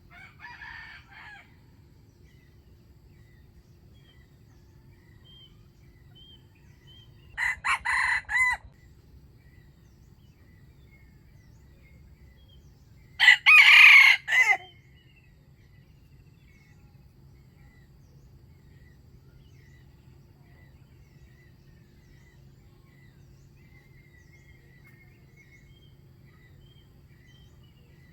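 A wild junglefowl rooster crows three times: faintly at the start, louder about eight seconds in, and loudest about thirteen seconds in, each crow short. Faint small-bird chirps run in between.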